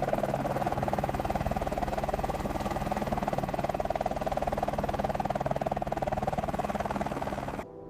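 Helicopter running steadily, its rotor chop a fast, even pulsing over a low engine hum; it cuts off suddenly near the end.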